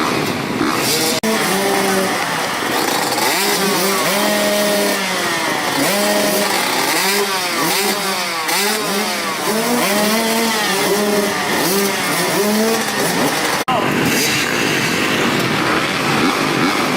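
Motocross dirt bike engines revving, several overlapping, their pitch rising and falling over and over as they accelerate and back off. There is a brief break in the sound about a second in and again near the end.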